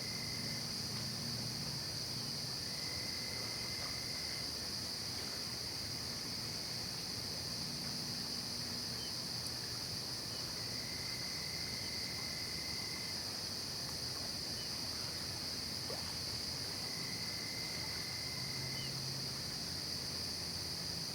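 Night insect chorus of crickets: a steady, unbroken high-pitched trilling. A lower trill of about two seconds comes and goes every few seconds, over a faint low hum.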